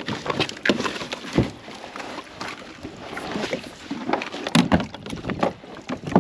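Irregular knocks, clatters and a few heavier thumps, with water sloshing, as people climb into a loaded two-person kayak and push it off into the water.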